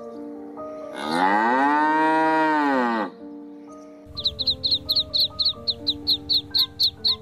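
A cow mooing once, a long call that rises and then falls in pitch, over light background music. After it, a quick run of short, high chicken calls, about five a second.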